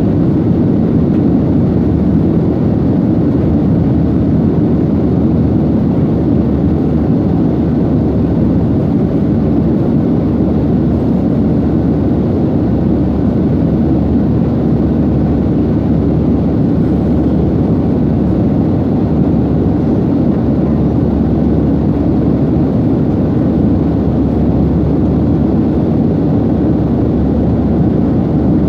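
Jet airliner cabin noise: the steady low rumble of the engines and rushing air, heard from inside the passenger cabin.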